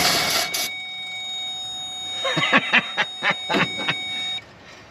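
1965 Ford Thunderbird's V8 engine running briefly, then cutting out suddenly about half a second in. A steady high tone follows, with several short sharp sounds near the middle, and the tone stops near the end.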